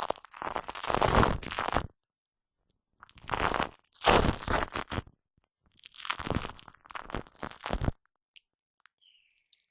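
Shaving foam squished and worked right against a Blue Yeti microphone, with sticky, soft sounds in three spells of a couple of seconds each, then quiet for the last two seconds.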